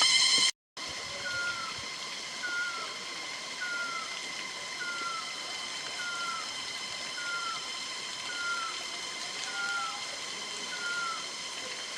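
Cicadas buzzing as a steady high drone. A short falling chirp repeats a little more than once a second over it. The drone drops out briefly about half a second in.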